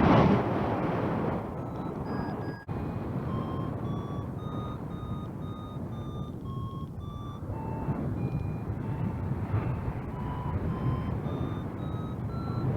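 Flight variometer beeping about twice a second, its tone stepping up and down in pitch with the climb rate, the sign that the glider is climbing in lift. Under it, wind rushes on the microphone, loudest in a gust at the start.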